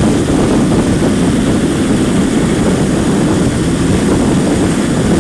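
Steady, loud wind rush buffeting a motorcycle rider's helmet microphone at highway speed, about 75 mph, with the motorcycle's engine running underneath.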